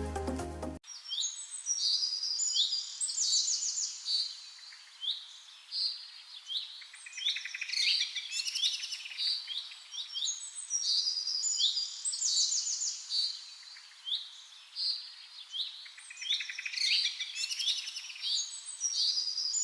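Small birds chirping and trilling in a busy chorus, with quick high calls repeating over and over.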